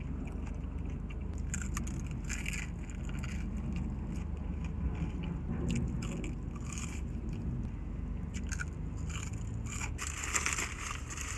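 Close-up chewing and crunching of fried onion rings, crisp batter breaking between the teeth at intervals, with the densest run of crunching near the end.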